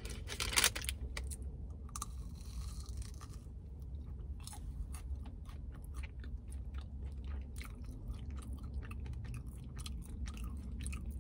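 A person biting into a breaded cheddar jalapeño popper and chewing it close to the microphone. A couple of sharp crunchy bite sounds come near the start, followed by continuous chewing with many small mouth clicks.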